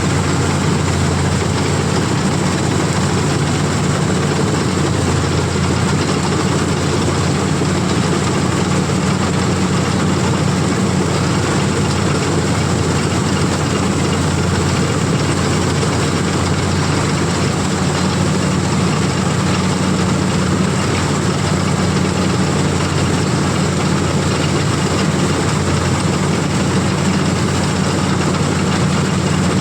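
CLAAS combine harvester running steadily, its heavy engine droning at a constant pitch with no change in speed.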